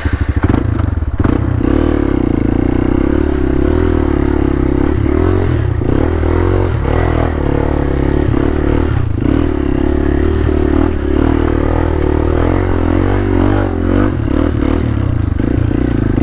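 Hero Xpulse 200 motorcycle's single-cylinder engine revving hard and held high, its pitch rising and dipping a little, as the bike is pushed through a slippery stretch where it got stuck.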